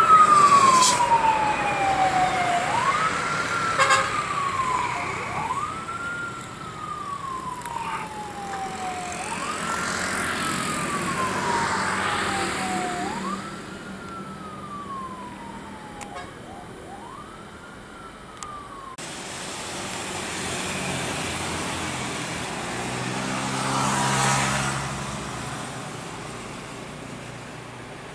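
Emergency-vehicle siren wailing, each cycle rising quickly and then falling slowly, about every three seconds, until it cuts off abruptly about two-thirds of the way through. After that, a low engine rumble swells and fades.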